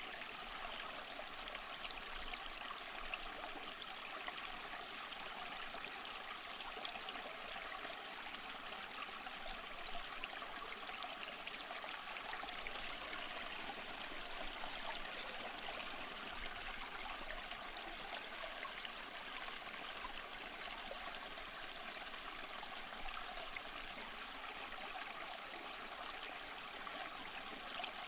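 Running water of a small waterfall or stream: a steady, even rush with a light trickling splash and little low rumble.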